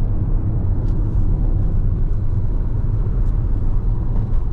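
Steady low rumble of a road vehicle driving along, heard from inside it.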